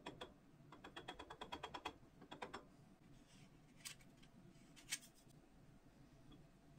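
A quick run of light clicks, about ten a second, then two sharper single clicks about a second apart.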